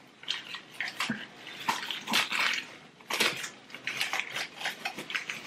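Irregular rustling and small clicks and knocks as small potted succulents are unwrapped and handled.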